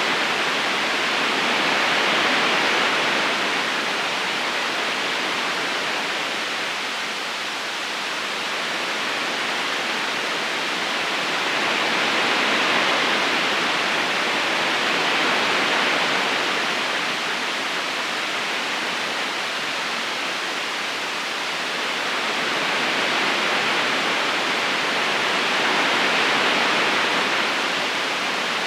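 Steady rushing of a river current, an even wash of water noise that slowly swells and eases every several seconds.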